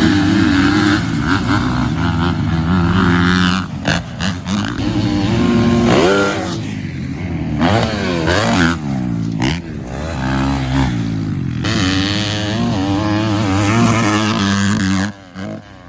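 Several motocross dirt bikes' engines running hard, their pitch repeatedly rising and falling as they rev, accelerate and shift, with more than one bike audible at once.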